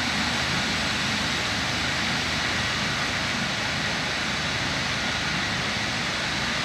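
Helicopter running steadily: an even rushing noise of turbine and rotor with faint high whining tones held at a constant pitch.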